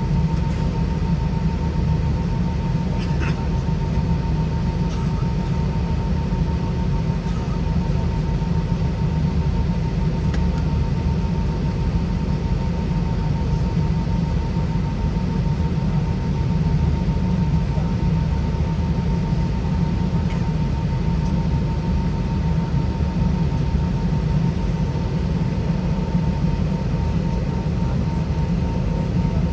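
Steady cabin noise inside an Airbus A320 with IAE V2533 engines: a constant low rumble of engines and airflow with a faint, steady whine above it, unchanging throughout.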